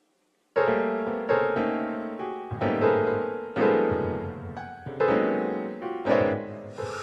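Slow, sad piano music: chords struck roughly once a second, each left to fade, beginning about half a second in.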